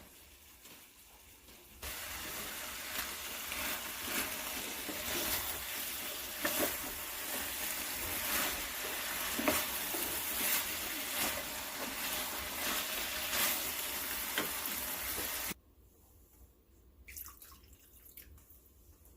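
Water being poured into a pot of cooking curry chicken, a steady rush of water that starts about two seconds in and stops abruptly about three seconds before the end.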